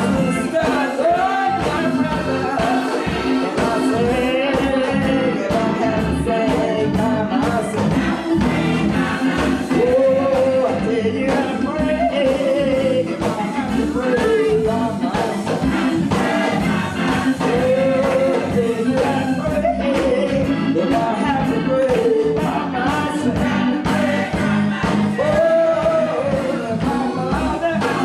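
Gospel church choir singing with band accompaniment, bass and drums keeping a steady beat.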